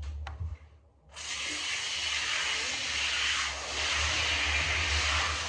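Running water starts about a second in and sprays steadily, wetting a dog's coat for a bath.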